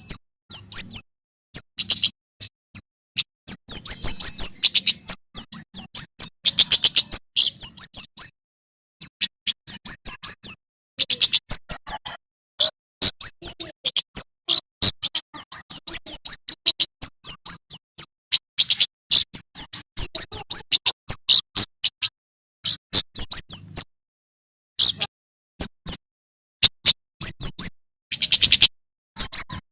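Male prenjak keres, also called kemade, singing in rapid runs of short, sharp, high chirps. The runs come in bursts broken by brief pauses.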